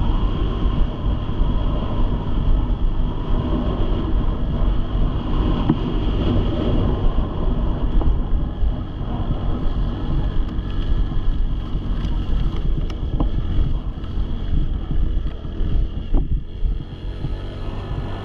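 Dirt bike engine running, with wind buffeting the microphone.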